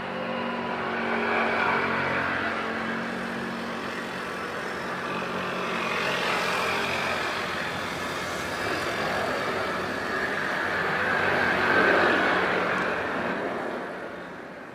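Jet airliner engines passing close by, a broad rushing noise that swells and eases and is loudest about twelve seconds in, then fades away.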